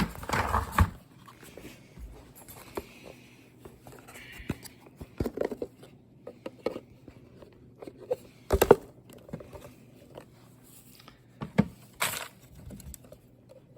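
Scattered plastic clicks, knocks and rustling from handling the opened dust cup and filter of a Bissell Featherweight stick vacuum, with louder clatters near the start, about halfway through and near the end.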